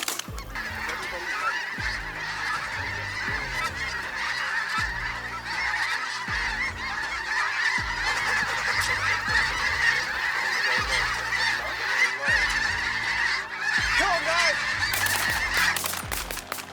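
A large flock of snow and Ross's geese calling, many birds honking at once in a steady, dense chorus that thins out near the end.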